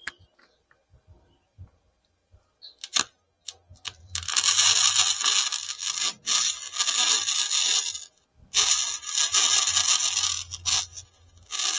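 Flux-core wire welder arc crackling and hissing as beads are laid on thin sheet metal, with the heat turned way down to avoid burning through. After a few quiet seconds with scattered clicks, one weld runs for about four seconds, then a second one follows a moment later, with a short burst near the end.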